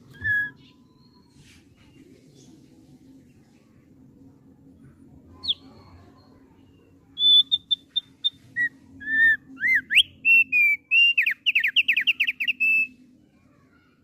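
Thick-billed white-eye (opior paruh tebal) singing: a single whistled note at the start and another about five seconds in, then from about seven seconds a run of clear whistles, a repeated high note, slurred and rising notes, and a fast series of down-slurred notes ending near thirteen seconds. A faint steady low hum sits underneath.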